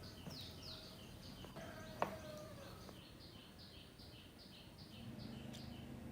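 A small bird calling in a fast run of short chirps that fall in pitch, about three a second. There is a single sharp click about two seconds in.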